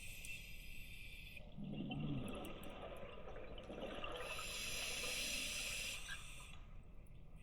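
Scuba diver breathing through a regulator underwater: a hissing inhale, then a burbling exhale of bubbles, then a second inhale hiss, with the next exhale starting near the end.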